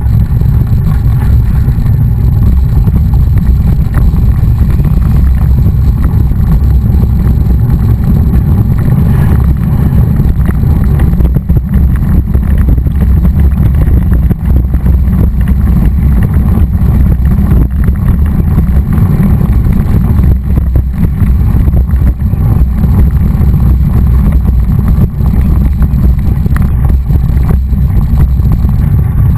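Loud, steady low rumble of wind and road noise from travelling at speed, unbroken throughout.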